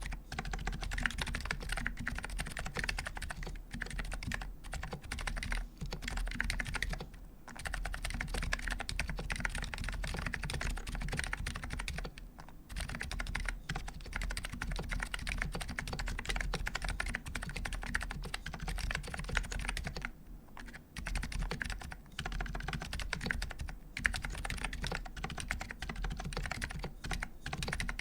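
Continuous typing on a Type K keyboard with electro-capacitive switches (Dynacap medium domes, unlubed Dynacap Gold springs), a steel plate, no foam and GMK keycaps: a dense, steady run of keystroke clacks, with short pauses about seven, twelve and twenty seconds in.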